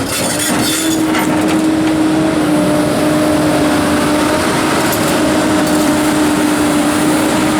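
Komatsu PC290-11 excavator's diesel engine running steadily with a constant hum, with a few sharp knocks in the first second.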